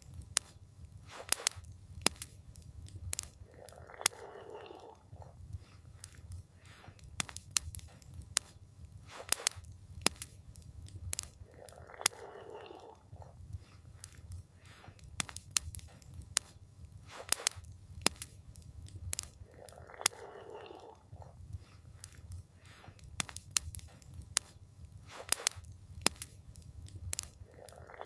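Campfire crackling: irregular sharp snaps and pops, several a second, over a low steady rumble of the flames. A soft hushing swell returns about every eight seconds.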